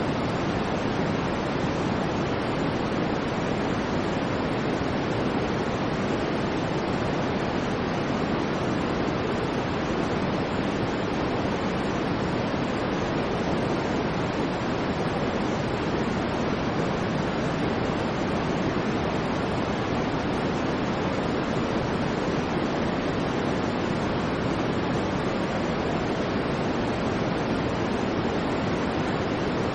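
Steady white noise: an even, unchanging hiss with no swells, breaks or changes in level.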